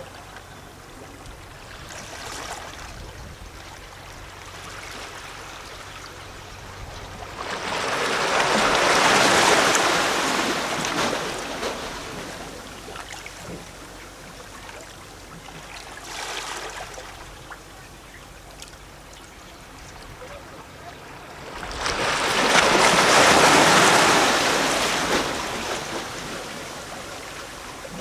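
Small sea waves lapping and sloshing against rocks, with a larger wave washing in about eight seconds in and another about twenty-two seconds in, each swelling and fading over a few seconds.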